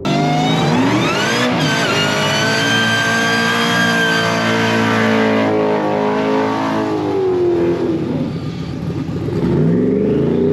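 High-performance car engine at full throttle on a drag run: the pitch climbs steeply, jumps at a gear shift about a second and a half in, then holds high before falling away as the throttle closes about eight seconds in. A short rev rises again near the end.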